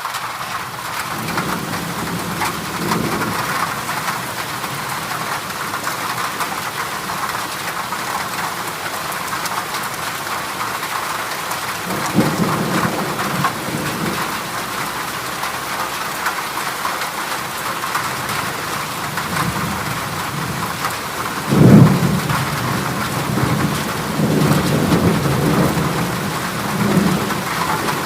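Heavy rain falling steadily on a corrugated zinc roof, with low thunder rumbling about twelve seconds in, a louder clap of thunder a little past two-thirds of the way through, and further rumbling near the end.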